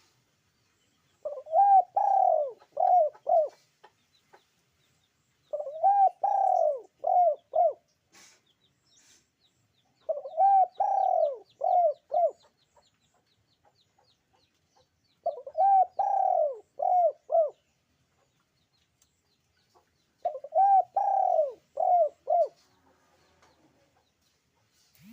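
Puter dove (Barbary dove) cooing: five phrases about five seconds apart, each a longer opening coo followed by three or four short coos.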